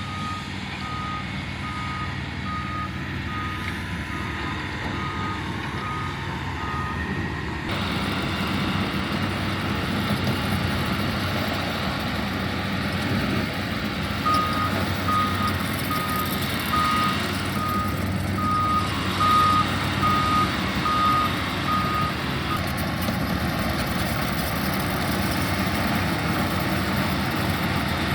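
Earthmoving machine's engine running steadily while its reversing alarm beeps at an even pace as it backs up; the beeping stops about a quarter of the way in and returns for a stretch in the middle.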